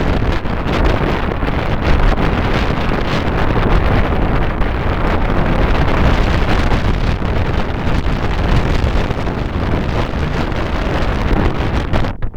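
Wind buffeting the microphone of a camera on a bicycle coasting fast downhill at about 25 to 35 mph: a loud, steady rush with a heavy low rumble.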